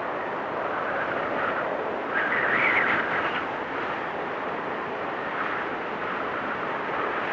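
Blizzard wind blowing steadily in gusts, with a stronger, higher gust about two seconds in.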